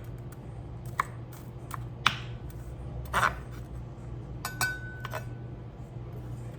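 Kitchen utensils and dishes being handled: a few separate knocks and clinks, one of them ringing briefly a little past the middle. A steady low hum runs underneath.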